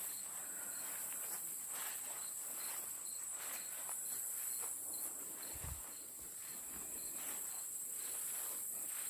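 Insects chirping: a steady high-pitched drone with a soft, regular chirp about two or three times a second, and faint footsteps.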